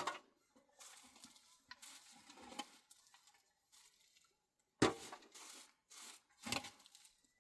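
Handling noises: a sharp knock at the start, rustling and scraping, then two louder knocks, about five and six and a half seconds in.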